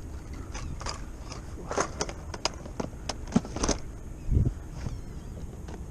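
Fishing tackle being handled on a boat: scattered clicks and light knocks over a steady low wind rumble, with one dull thump about four and a half seconds in.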